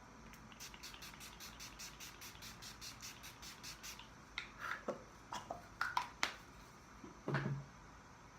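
Pump-mist bottle of Urban Decay Oil Control setting spray sprayed in a quick run of about fifteen short hissy sprays, four to five a second. Then a few louder sharp clicks and brief falling squeaks, and a short low hum near the end.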